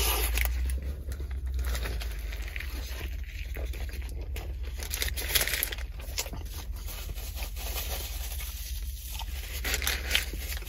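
A bite into a fast-food sandwich and close-miked chewing: wet mouth sounds with many small scattered clicks and crackles.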